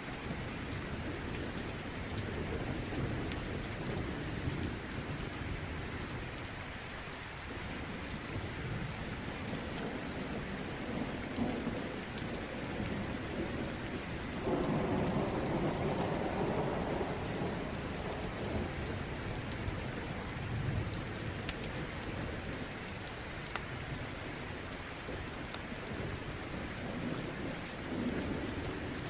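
Steady rain with low rolling thunder, and a louder roll of thunder about halfway through, over the sparse crackle of a wood fire.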